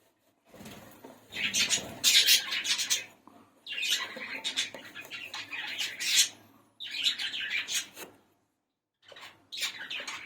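Budgerigars chattering in four bursts of one to three seconds each, with short gaps between.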